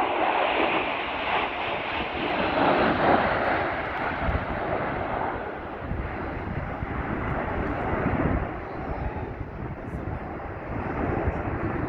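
Airplane engine noise from an aircraft flying past: a dense rushing sound, loudest in the first five seconds, easing off, then swelling again near the end.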